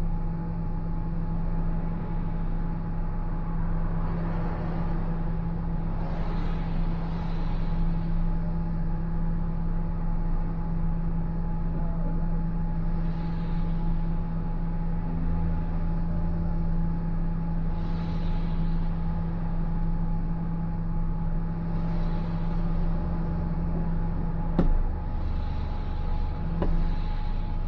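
Car cabin on a rainy drive: a steady engine and road hum, with a soft swish of the windscreen wipers every few seconds. A sharp click comes near the end, and the steady hum's low tone drops away with it.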